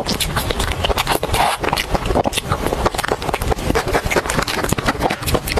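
Close-miked wet chewing and lip smacking on soft cream cake: a dense, quick run of small mouth clicks.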